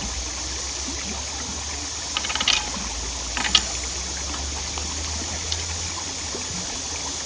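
Steady rush of creek water running through a cleared culvert. There are two short bursts of crackling clicks, about two seconds in and about three and a half seconds in.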